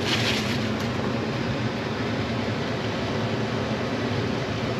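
Steady rushing noise with a low hum underneath, and a brief brighter hiss near the start.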